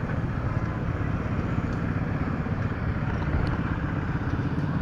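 An engine running steadily at low speed, with a rapid, even low beat.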